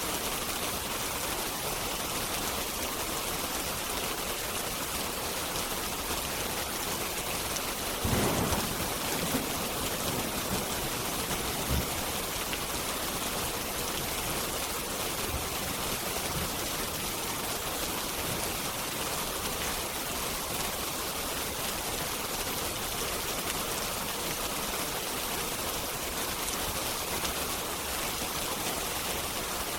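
Steady rain hiss with a few sharp pops from a crackling wood fire; the loudest, a short burst, comes about eight seconds in.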